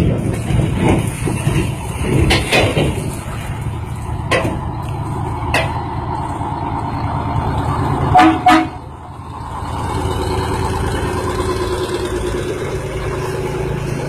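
Truck engine running, with several sharp knocks and two short loud horn toots about eight seconds in, followed by a steady tone.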